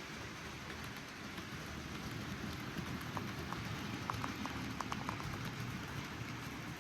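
N gauge model train running along the track, its wheels and motor making a steady rattling run. A few short ticks come a little past halfway through.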